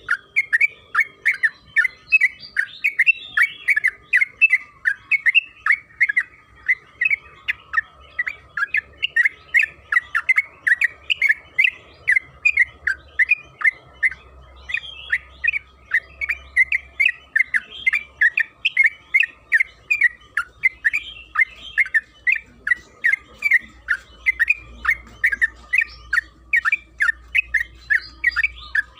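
Yellow-vented bulbul (trucukan) singing a long, unbroken run of short, sharp chattering notes, about two to three a second, over a faint steady tone.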